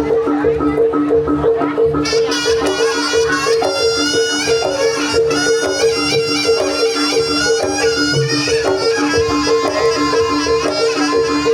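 Javanese gamelan-style ensemble music with no singing. Mallet-struck instruments keep up an evenly pulsing repeated pattern. About two seconds in, a melody with a wavering, sliding pitch comes in over it.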